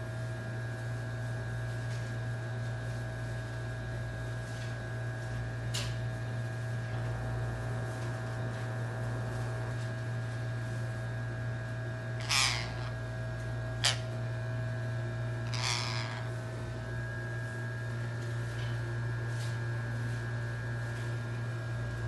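Parrot giving two harsh squawks about three seconds apart, over a steady electrical hum, with a couple of sharp clicks.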